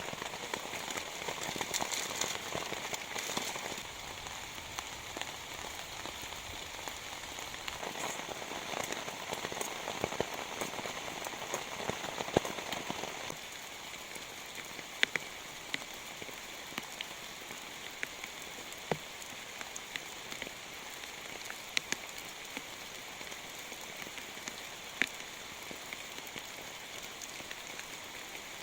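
Heavy rain falling steadily, with many separate sharp drop strikes standing out over the wash. The rain eases a little about halfway through, leaving mostly scattered drop hits over a lighter hiss.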